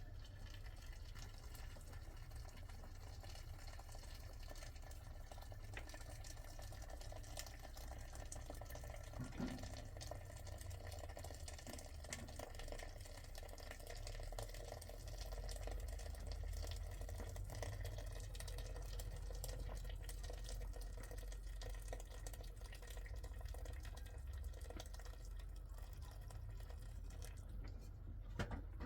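Faint running or trickling water, with small scattered clicks and drips.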